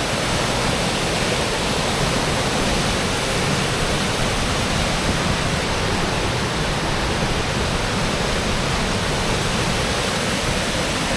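Roadside waterfall: water falling and rushing in a loud, steady roar with no change.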